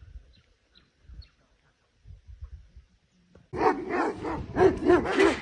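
A dog barking in quick succession, several barks a second, starting about three and a half seconds in; before that only a faint low rumble.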